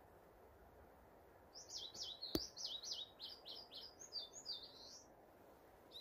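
A small songbird singing one quick phrase of about ten sharp notes, each sweeping up and down in pitch, starting about a second and a half in and lasting about three and a half seconds. A single sharp click sounds partway through the song.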